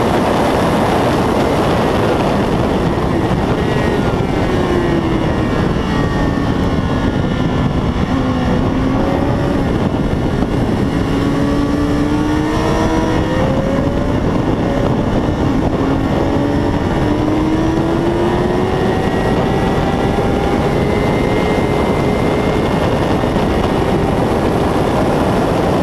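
A 600 cc racing motorcycle engine under heavy wind rush, its note falling and then rising slowly at moderate revs.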